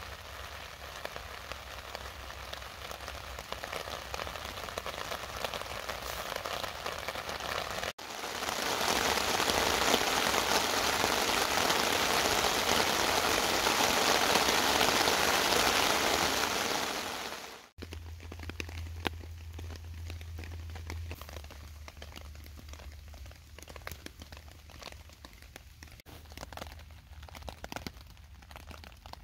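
Rain shower falling on a tent rain fly and a camping tarp, a steady hiss. About eight seconds in it turns much louder and denser for roughly ten seconds, heard from under the tarp. Then it drops back to lighter rain with scattered single drops striking the fabric.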